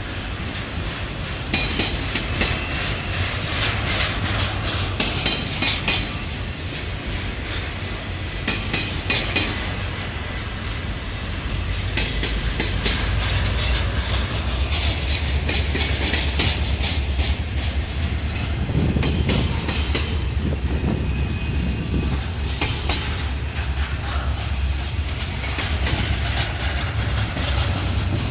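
A train rolling past, its wheels clicking steadily over the rail joints over a continuous low rumble, with faint high-pitched wheel squeal at times.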